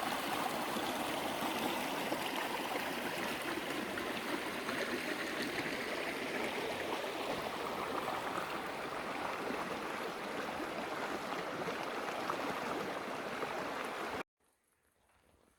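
The Franklin River flowing, a steady, even rush of water heard close up. It cuts off suddenly about fourteen seconds in, leaving near silence.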